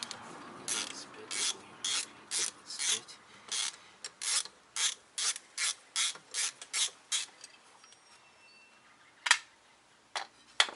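Ratchet wrench clicking in a steady run of short strokes, about two or three a second, as a fastener is wound out; the clicking stops about seven seconds in, followed by a few separate sharp clicks near the end.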